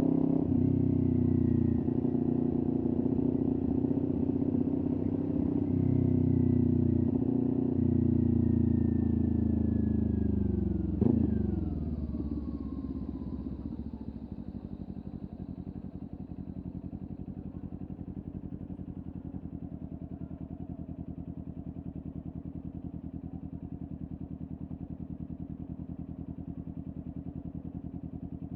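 Kawasaki Ninja 400's parallel-twin engine through a LeoVince aftermarket exhaust, running under way at fairly steady revs. About eleven seconds in there is a sharp click, and the revs fall away as the bike slows. The engine then settles into a steady, evenly pulsing idle for the rest of the time.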